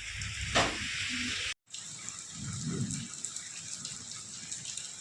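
Rain falling. The sound cuts out abruptly about a second and a half in, then resumes as a quieter, finer patter of water.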